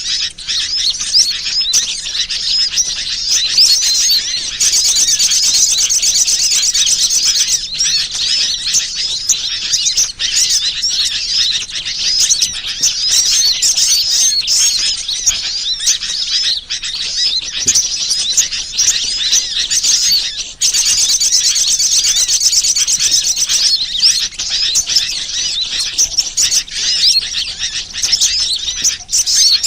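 Bird-lure recording of many small birds chirping and twittering in a dense, high-pitched chorus. A fast buzzy trill comes in twice, about 5 seconds in and again about 21 seconds in, as the track loops.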